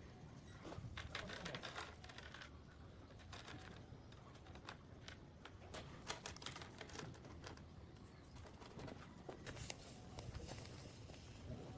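Faint scattered clicks, taps and scratchy rustles of small hand work, with a louder scraping stretch about a second in.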